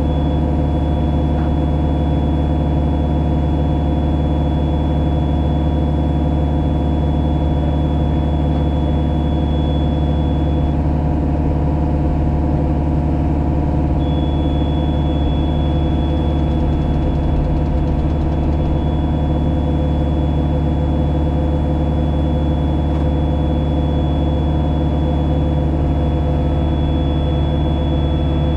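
Steady drone of the JCB Pothole Pro's diesel engine heard inside the cab, running at an even speed without revving. A thin high whine sits over it and drops out for a few seconds around the middle.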